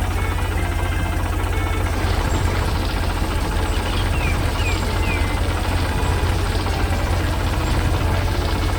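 Tractor engine running steadily with a deep, pulsing low rumble. A few short high chirps sound about four to five seconds in.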